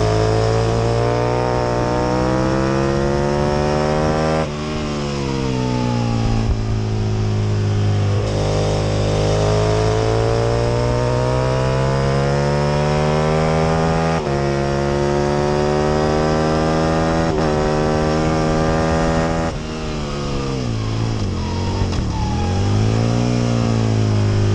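Aprilia RSV Mille R's V-twin engine at racing speed, heard onboard: it climbs through the revs in repeated pulls broken by sudden gear shifts, falls away under braking and downshifts about twenty seconds in, then picks up again near the end.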